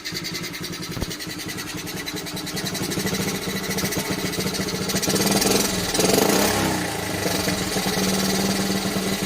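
1972 Honda Dax ST70's small single-cylinder four-stroke engine running at a steady tick-over with a fast, even beat. It swells a little louder about five to six seconds in.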